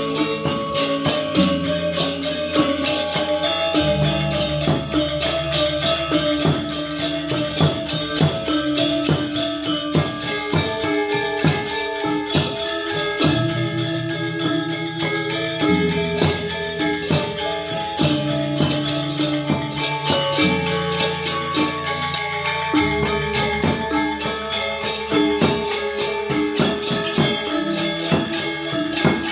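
Balinese gamelan ensemble playing: metallophones strike dense, rapid interlocking notes over low gong tones that change every few seconds, with a constant bright jingle of small cymbals.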